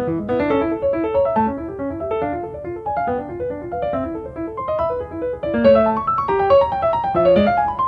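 Background piano music: quick runs of notes played over a steady pulse.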